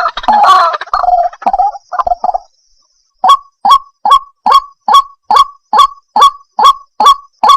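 White-breasted waterhen calling: a run of harsh, overlapping calls that breaks off about two and a half seconds in. After a short pause comes a steady series of short, clipped calls, a little more than two a second.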